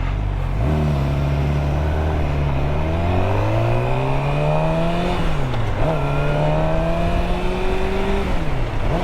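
2013 Suzuki GSX-R600's inline-four engine pulling away from idle, its pitch climbing as it accelerates, with quick drops in pitch at two upshifts, about five and a half and eight and a half seconds in.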